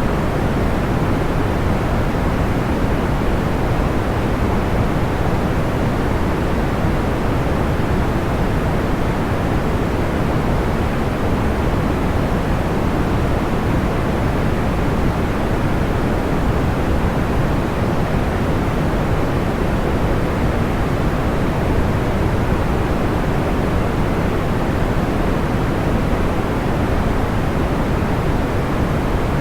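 Steady, even rushing noise, deep and weighted toward the low end with little hiss on top: a continuous white-noise sleep track. It holds constant with no crackles or pops.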